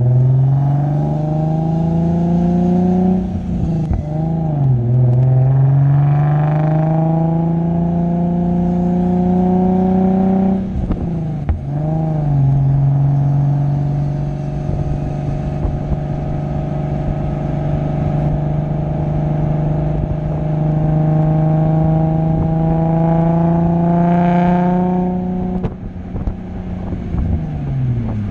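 Nissan 350Z's VQ35HR V6 through an Invidia Gemini true dual exhaust with Berk test pipes, accelerating hard, heard from the bumper. The pitch climbs steadily through the gears, with upshifts about three and a half and eleven seconds in, then falls away as the driver lifts off near the end.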